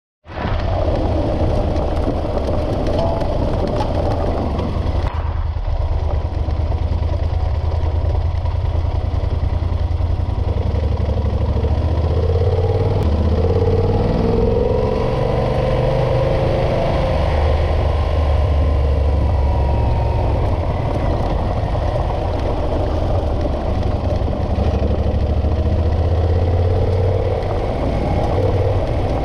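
Motorcycle engine running under way, with heavy wind rumble on the microphone; the engine note rises and falls gently with the throttle.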